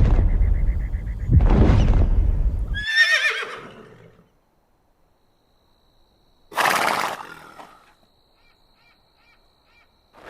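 A horse whinnying: loud, rough, low bursts of breath for the first three seconds, then a quavering whinny that falls in pitch about three seconds in, and a short rough blast around seven seconds.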